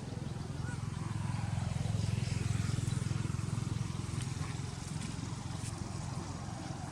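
A vehicle's engine droning as it passes, swelling to its loudest about halfway through and then fading away.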